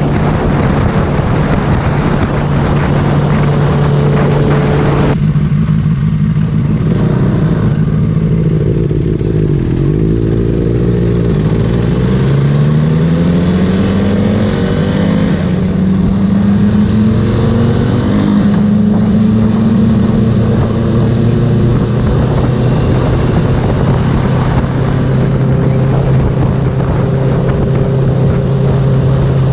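Motorcycle engine running on the move, its pitch dropping and then climbing again as the bike slows and accelerates.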